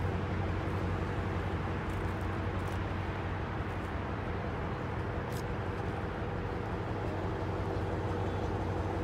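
A car engine idling steadily, a low, even hum that does not change in pitch.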